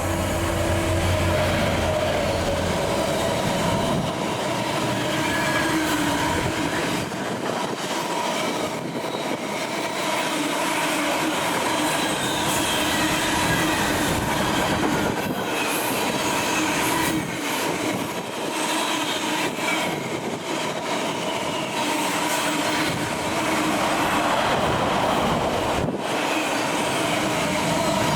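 A train running through on the rails, its wheels squealing in wavering high tones. A deep hum is heard for the first three seconds.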